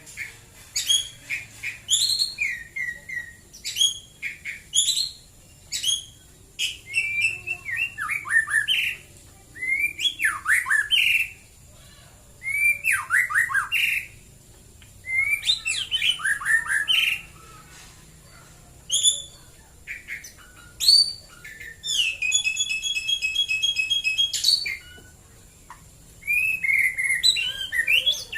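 White-rumped shama (murai batu) singing: varied phrases of whistles, sweeping notes and chirps with short pauses between them, and a run of evenly repeated notes about three-quarters of the way in.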